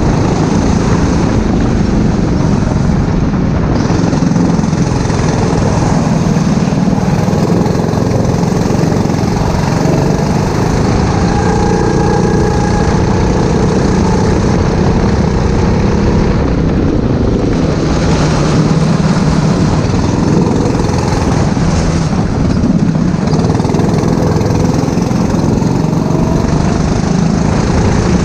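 Racing kart engine running on track, its revs rising and falling through the corners, under a steady loud rushing noise.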